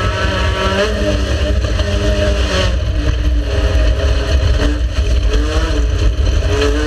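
Race car engine under hard driving, its pitch climbing and then dropping again several times as it revs and shifts, over a heavy low rumble.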